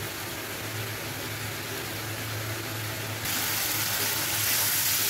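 Steady cooking hiss of a pan of fish in masala over a low hum, then about three seconds in, louder sizzling of onion-spice masala frying (being 'koshano') in a karahi.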